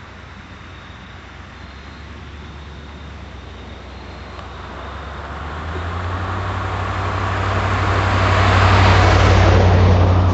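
Motor vehicle engine and road noise, growing steadily louder through the second half, then cutting off abruptly at the end.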